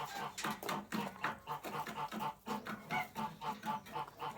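Domestic poultry giving a rapid run of short, repeated calls, about four or five a second.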